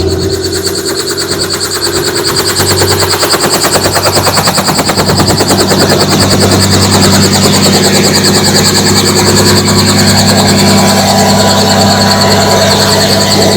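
Helicopter rotor and turbine running up: fast, even rotor beats that grow louder over the first several seconds and then hold steady, under a steady high turbine whine.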